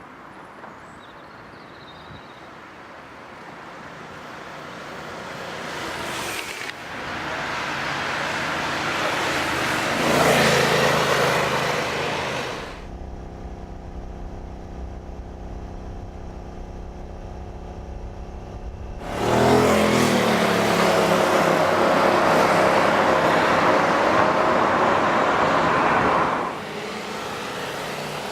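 A muscle car's engine running under acceleration. It builds up and peaks about a third of the way in, then drops abruptly to a steadier, quieter run, comes back loud for several seconds, and falls off again near the end.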